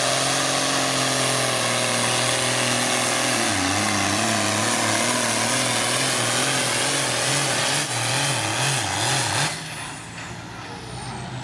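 A pulling vehicle's engine at full throttle hauling the sled down the track. Partway through, its pitch starts surging up and down as the vehicle bounces. Near the end it drops off suddenly as the throttle is let off at the end of the pull.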